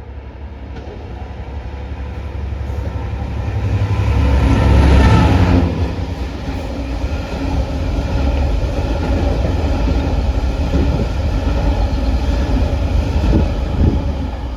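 Train passing close by, loudest about five seconds in, then running on steadily until the sound cuts off abruptly.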